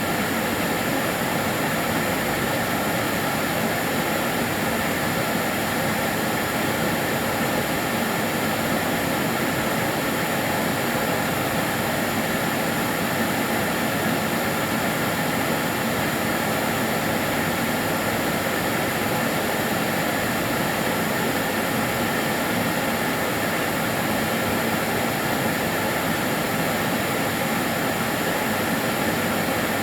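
Karcher DS 6 Premium water-filter vacuum cleaner running steadily, an even, unchanging whoosh of motor and airflow with a faint high whine.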